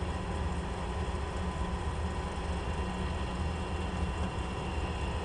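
Comp safari race car's engine idling steadily while the car stands still, heard from inside the cab.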